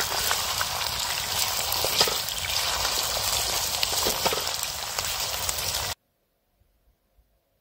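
Raw potato strips frying in hot oil in a pan, a loud steady sizzle with scattered crackles. It cuts off suddenly about six seconds in, leaving near silence.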